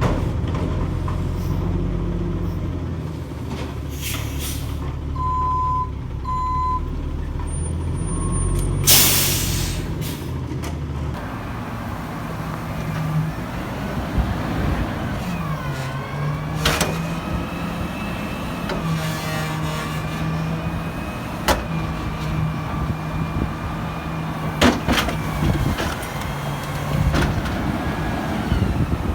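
Diesel garbage truck running: a steady idle with two short beeps and a loud burst of air-brake hiss about nine seconds in. Then the engine revs up and down under load, with a steady higher whine and a few knocks.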